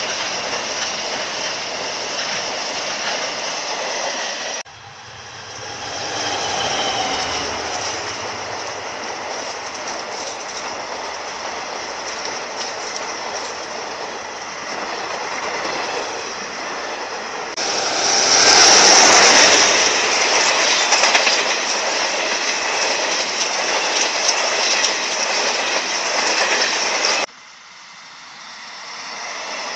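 Trains passing close by on the track: the steady running noise of a container freight train and then a long passenger train going past, in separate recordings joined by sudden cuts, loudest as one train passes about two-thirds of the way through.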